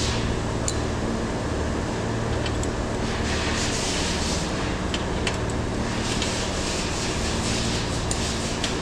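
Steady mechanical hum with a hiss that swells and fades, broken by a few light sharp clicks.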